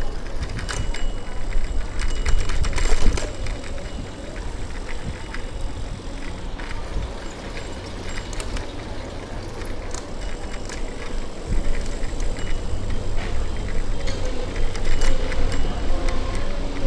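Bicycle riding on a city street: a steady low rumble with frequent short rattling clicks from the bike.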